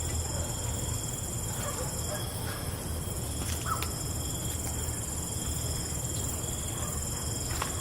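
Night-time chorus of crickets trilling steadily in several high continuous tones, over a low steady rumble, with a few faint short chirps and clicks.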